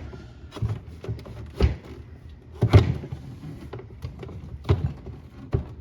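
Irregular knocks and clicks of refrigerator ice maker parts being handled and fitted together, about six in all, the loudest near the middle.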